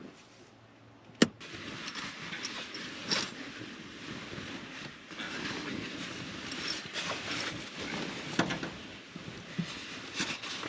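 A sharp click about a second in, then continuous rustling with scattered knocks.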